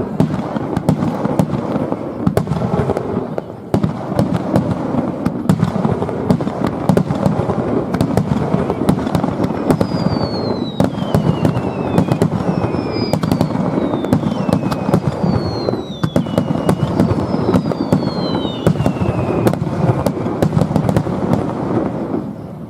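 Fireworks display in a rapid barrage: continuous booming shell bursts and crackling, with sharp cracks packed throughout. From about ten to twenty seconds in, several high whistles slide down in pitch one after another. The barrage dies down just before the end.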